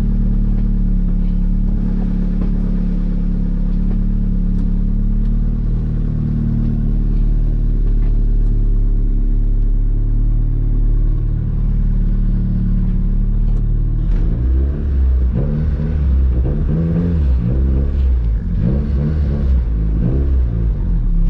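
Honda Civic engine running steadily, then from about 14 seconds in its pitch rises and falls over and over in quick swells.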